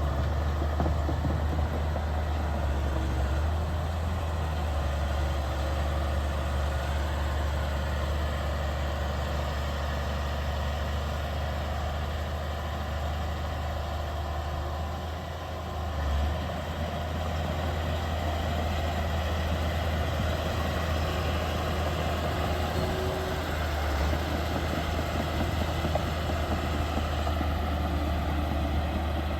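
Heavy diesel engine of earth-moving machinery running steadily at low revs, with a brief rise in level about sixteen seconds in.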